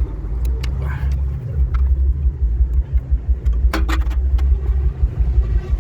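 Low, steady rumble of the Audi A4 B8 on the move, with scattered sharp clicks and knocks, a cluster of them a little before the four-second mark.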